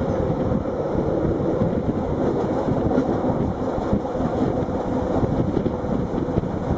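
Rhaetian Railway train running, a steady loud rumble with a faint even hum through it.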